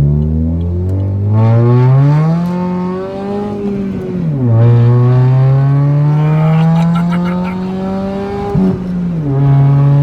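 Saturn Ion Redline's supercharged 2.0-litre Ecotec four-cylinder accelerating hard: the engine pitch climbs through a gear, drops at a shift about four seconds in, climbs again and drops at a second shift about nine seconds in.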